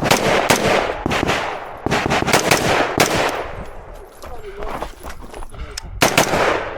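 Rifle shots fired in quick strings during a practical shooting stage, sharp cracks with a short echo after each, in clusters of several shots with a pause of a couple of seconds around the middle.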